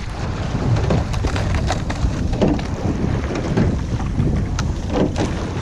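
Wind buffeting the microphone over water rushing past a moving rowing boat, with scattered short knocks.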